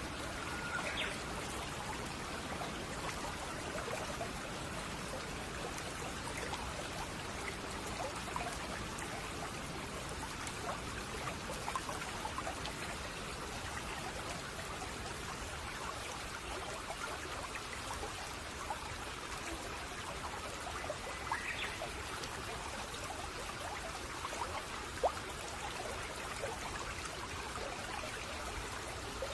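A babbling stream: water trickling and burbling steadily over stones, with small pops and splashes. A short bird chirp is heard about a second in and again about two-thirds of the way through.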